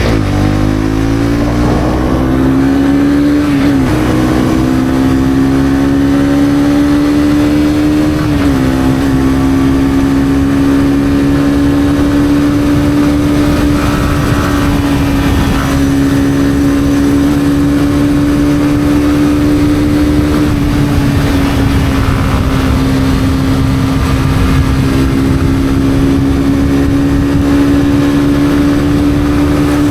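Honda CB250R's single-cylinder engine accelerating, its note rising, with two brief drops in pitch about four and eight seconds in as it shifts up, then holding a high, steady note at speed.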